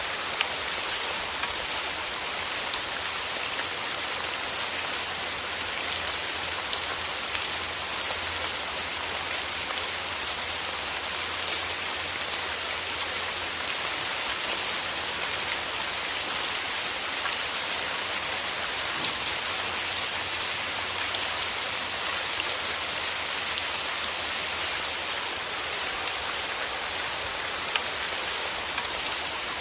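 Steady rain falling, an even hiss with scattered sharp drop ticks on nearby surfaces, over a faint low hum.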